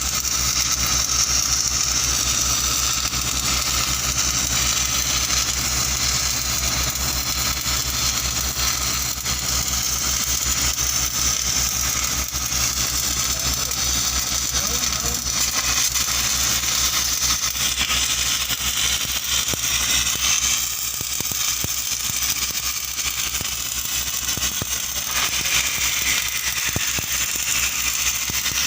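Arc welding on a pipeline, the arc crackling and hissing steadily over the low steady hum of an engine running.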